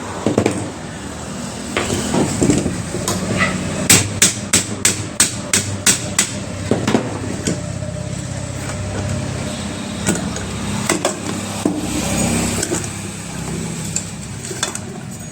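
Hammer strikes on a mathani (electric churner) motor as it is opened. The blows come in a quick run of about four a second a few seconds in, with scattered single knocks before and after.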